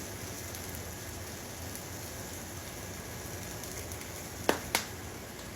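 Steady sizzling hiss of breaded chicken frying in oil, with two sharp clicks about four and a half seconds in.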